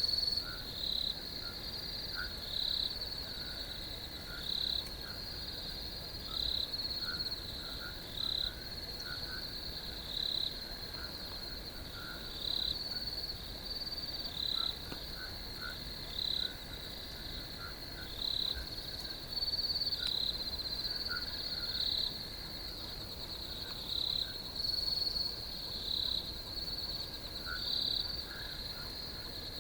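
Crickets trilling steadily in a high, even chorus, with a louder short call repeating about every two seconds over it.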